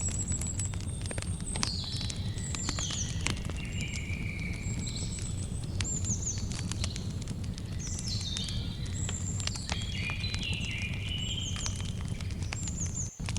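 Campfire crackling with frequent sharp pops over a steady low rumble, while birds sing repeated short falling chirps high above it. The sound drops out for an instant near the end.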